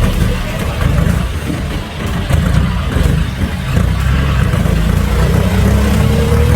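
John Deere 5055E tractor's diesel engine running under load, its low throb easing off for a moment about a second in and then picking back up.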